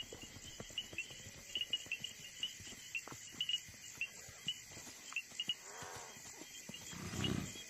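Night insects, crickets, chirping in short high pulses throughout, with faint scattered ticks and a louder low grunt-like call near the end.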